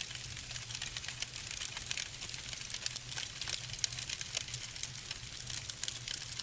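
Firewood burning down in a fireplace, crackling with many quick irregular snaps over a low steady hum.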